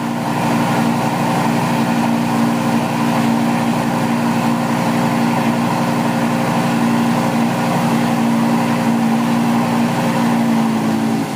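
A 2004 Lamborghini Gallardo's 5.0-litre Titan twin-turbo V10 idling steadily, with an even hum and no revving.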